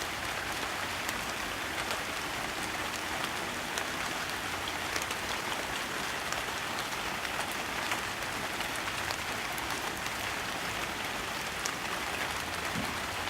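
Steady rain falling, with scattered sharp ticks of individual drops hitting a surface.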